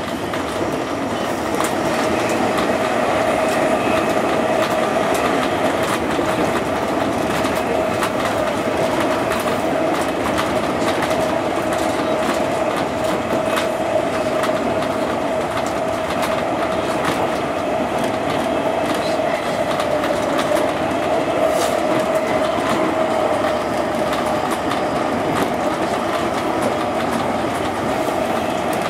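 JR 201 series electric commuter train running at steady speed, heard from the driver's cab: a steady hum over running noise, with frequent wheel clicks on the rails.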